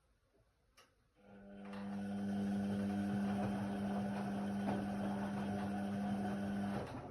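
Indesit WIDL 106 washer-dryer: a click, then an internal motor starts up with a steady hum and runs for about five and a half seconds before cutting off near the end.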